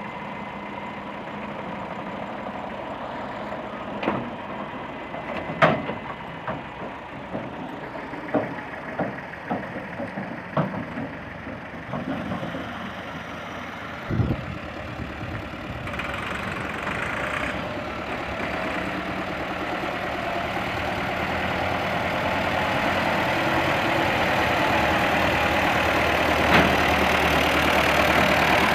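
Tractor diesel engine idling, with a run of sharp knocks and clanks in the first half. In the second half the engine runs steadily louder and higher, as if revved up slowly.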